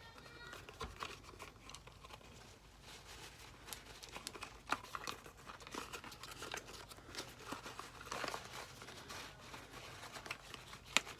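Packaging and small items being handled: scattered crinkling and rustling with light clicks, and one sharper click near the end.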